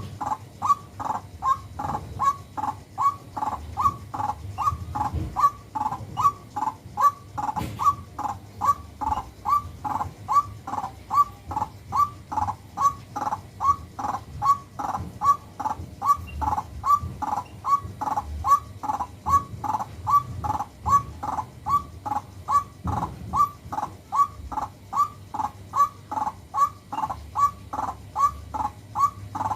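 White-breasted waterhen calling over and over, a harsh crow-like note repeated evenly about twice a second without a break.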